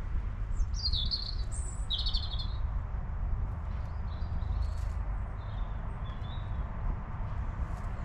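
Songbirds chirping: two quick bursts of high chirps in the first few seconds, then fainter calls, over a low steady rumble.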